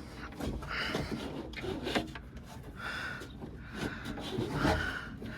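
Irregular rubbing and scraping with light knocks as the truck door's window glass is worked back into its channel inside the door.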